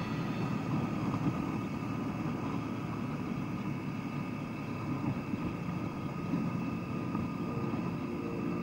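KTM 1290 Super Duke GT's V-twin engine running at a steady pitch while riding, with wind noise rushing past the camera.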